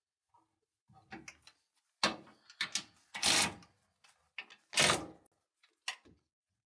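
Bolts and radiator-fan parts being handled: a series of short knocks, clinks and scrapes, the loudest about two, three and five seconds in.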